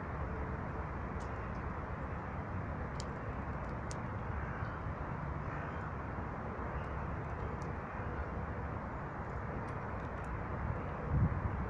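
Steady outdoor background noise, a low rumble with hiss, with a few faint high ticks or chips and a brief low thump or rumble near the end.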